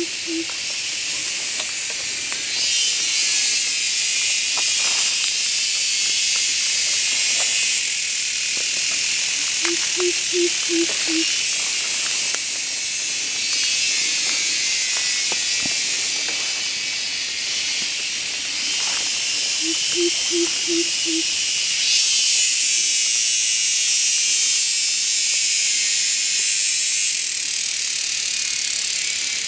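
A loud, high-pitched buzzing chorus of jungle insects, likely cicadas, that swells and eases every few seconds. A low call of five quick hoots repeats about every ten seconds: near the start, about ten seconds in, and about twenty seconds in.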